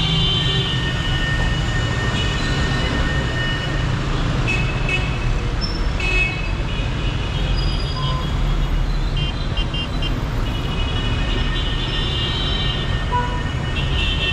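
Dense city street traffic: engines of cars, buses and motorbikes running together, with car horns honking again and again throughout, some short and some held for a second or more.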